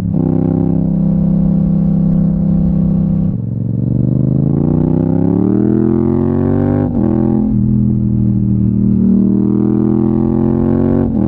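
Yamaha MT-07's 270-degree parallel-twin engine through an Akrapovic exhaust, riding under load. It runs steady, then rises in pitch over about three seconds as the bike accelerates. A gear change comes about seven seconds in, then it settles into a steady note, with another brief shift near the end.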